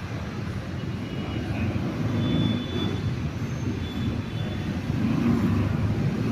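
CMC Tecstar 48-inch industrial ceiling fan running fast, heard as a steady low rumble of moving air that swells a little twice.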